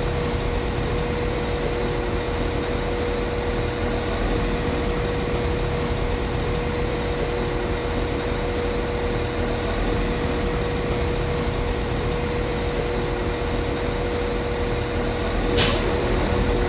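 Diesel engine of a Class 195 CAF Civity multiple unit idling steadily, a low rumble with a constant hum. Near the end a single sharp knock cuts in briefly over it.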